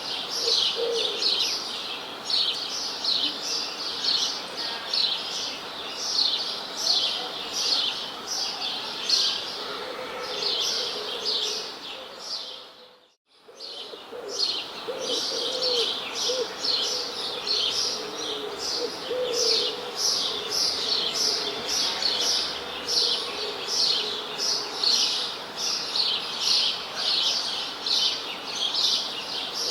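Birds chirping in a busy, rapid run of high chirps, about two or three a second, with lower, softer calls underneath. The sound dips out briefly about halfway through and comes back.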